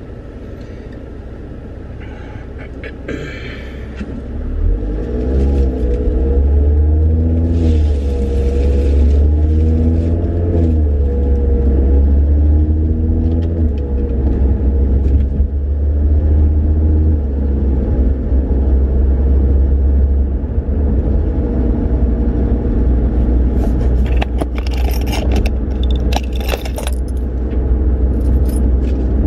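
Audi RS3 8V2's turbocharged five-cylinder engine heard from inside the cabin while driving. It gets louder about four seconds in, then its pitch climbs and drops repeatedly as it accelerates through the gears, over a deep drone. Metallic clinking and rattling comes several times near the end, from the loose original springs in the back.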